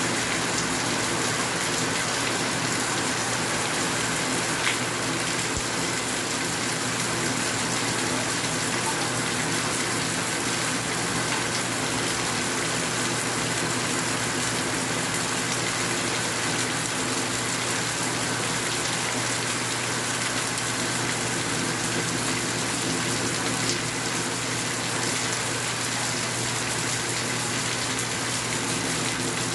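Steady rain falling in an even, dense hiss, with a couple of sharper drop ticks, one about five seconds in and one near the end.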